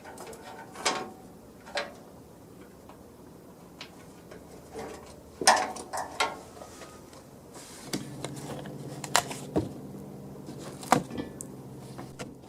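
Scattered sharp clicks and knocks of workshop handling, joined by a steady low hum about eight seconds in.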